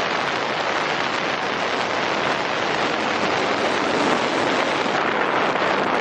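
Steady rush of wind and road noise from riding in the rat rod at highway speed, with wind buffeting the microphone.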